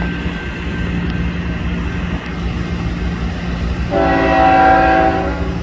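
CSX freight train's diesel locomotives running with a steady low rumble, and a single locomotive horn blast, a chord of several tones, beginning about four seconds in and lasting about a second and a half.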